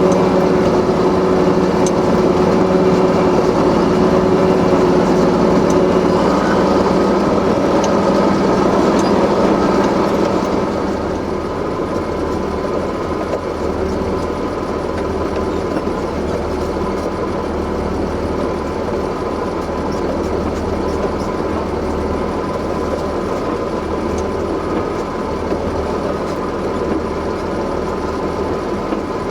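Heavy vehicle engines running steadily at idle, with a low, even hum. About six seconds in the pitched drone changes, and at about ten seconds the overall sound becomes quieter as a lower rumble takes over.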